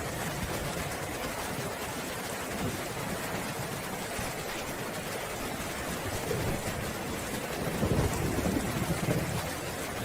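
Steady rainfall with a low roll of thunder that builds about two-thirds of the way in and is loudest near the end.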